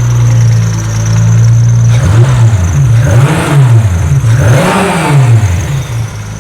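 Mitsubishi GTO's turbocharged 6G72 3.0-litre V6 idling steadily, then revved in several quick blips before settling back to idle about five and a half seconds in. It is running on only an initial startup tune, not yet properly tuned.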